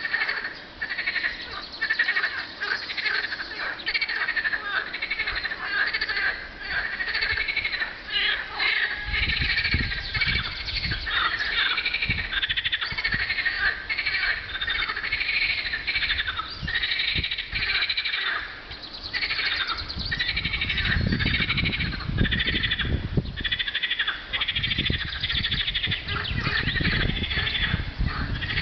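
Chorus of many frogs calling at once, a dense, continuous stream of rapid pulsed croaks. A low rumble comes and goes from about a third of the way in.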